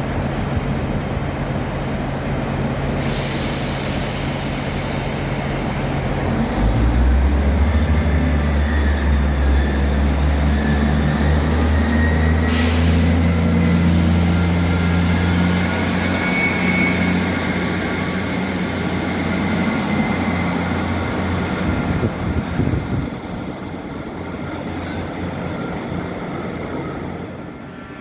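Train running through the station: a steady low drone that steps up and grows louder about six seconds in, with rushing rail noise and a faint high whine, dying away near the end.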